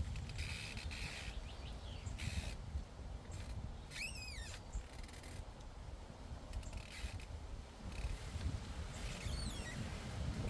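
Llamas cropping grass, short crisp tearing and crunching bits coming and going over a steady low wind rumble on the microphone. A bird calls once about four seconds in, and a shorter chirping call comes near the end.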